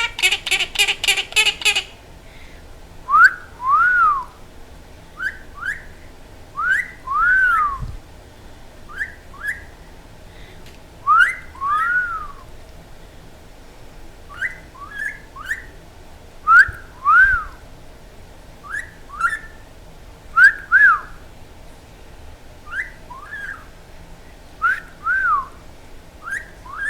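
Quaker parrot (monk parakeet) whistling: a quick run of harsh chirps at the start, then a repeated short phrase of a quick upward whistle followed by a rising-and-falling one, every second or two.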